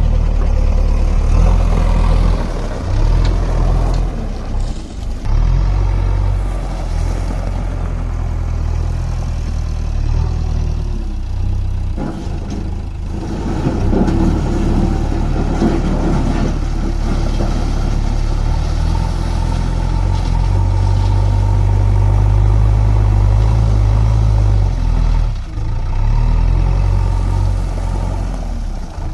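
JCB backhoe loader's diesel engine running under load, its note rising and falling as it works, with brief drops in level a few times.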